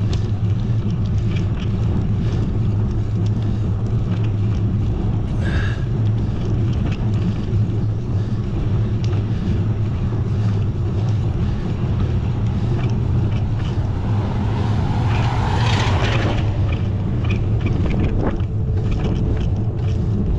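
Steady low rumble and hiss of wind and road noise on a cyclist's camera microphone. A louder swelling hiss rises and fades about fifteen seconds in, like a vehicle going by.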